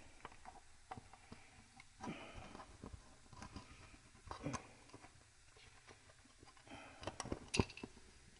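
Scattered light clicks, taps and brief rustles of small parts, wiring and hand tools being handled on a motorcycle engine, with a few sharper clicks near the end.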